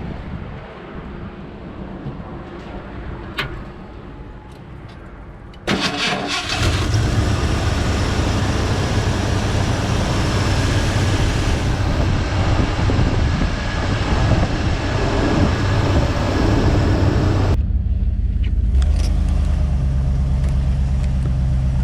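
Truck engine started about six seconds in, after a few clicks, then running steadily with a strong low hum; some seconds later the higher noise drops away and it keeps running. This is a test run to check a freshly replaced radiator hose, with plain water in the radiator, for leaks.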